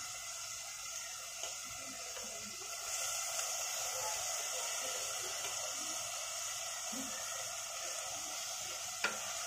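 Masala paste frying in hot oil in a steel pot: a quiet, steady sizzle that grows a little louder about three seconds in, as chopped tomato goes into the pan. There is a short knock near the end.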